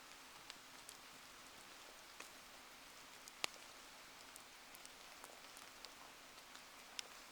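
Faint steady rain hiss with scattered sharp ticks of drops, one louder crack about three and a half seconds in and another near the end.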